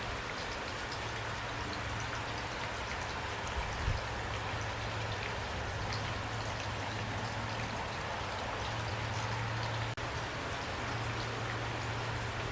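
Steady rain with many small drops ticking, over a low steady rumble. The sound cuts out for an instant about ten seconds in.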